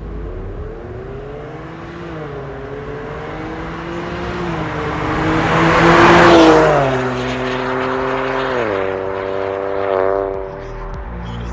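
Ford Focus ST-Line Mk4's 1.5-litre turbocharged three-cylinder through an MS-R valved cat-back exhaust, pulling hard: the engine note climbs and then steps down at gear changes, loudest about six seconds in.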